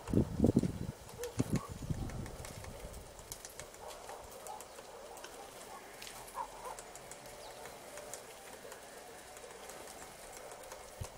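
A few faint, short bird calls and light ticks over quiet background noise, with a cluster of low thumps in the first two seconds.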